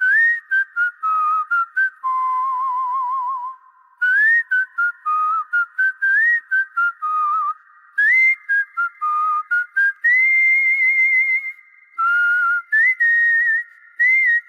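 A tune whistled in clear, pure notes: short phrases of quick stepping and gliding notes, with a long warbling held note about two seconds in and another about ten seconds in.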